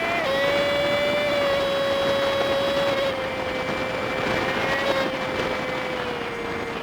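Honda Super Cub 50's small single-cylinder four-stroke engine running at a steady cruise, played back at five times speed so it sounds as a high, steady hum that sinks a little in pitch toward the end, over a constant hiss.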